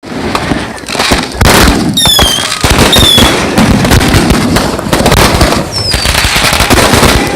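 Dense, continuous crackle of many firecrackers going off at once, loud throughout. Short high whistles cut through about two and three seconds in, and a falling whistle comes near six seconds.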